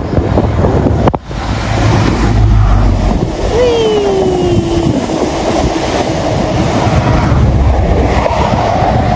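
A Great Western Railway High Speed Train, led by a Class 43 diesel power car, passing at speed directly beneath a footbridge. Engine and wheel noise run steadily. About three and a half seconds in, a whine drops in pitch as the power car goes under, and the carriages follow.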